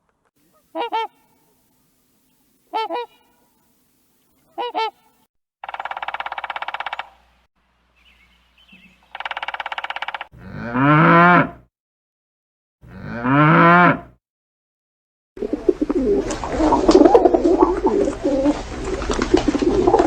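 A run of separate animal calls: three short calls, two buzzy drawn-out calls, then two long low moos from cattle. In the last five seconds a flock of birds honks all at once in a dense, overlapping din.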